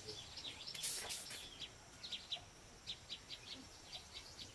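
Small birds chirping, a steady run of short high calls, with a brief hiss about a second in.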